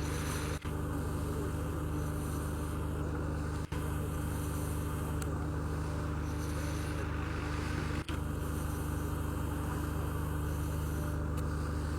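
Boat engine running at a steady cruising drone, with three very brief dropouts.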